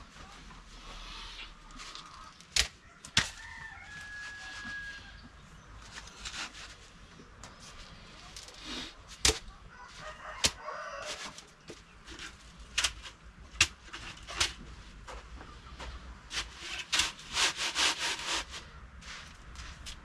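Farm poultry clucking and calling, mixed with many short sharp clicks and knocks. A few loud knocks come about two and a half, three and nine seconds in, and the clicks crowd together near the end.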